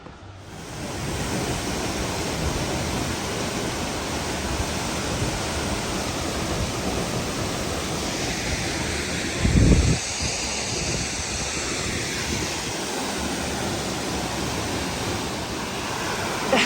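Waterfall rushing with a steady, loud roar of falling water. About halfway through there is a brief low rumble.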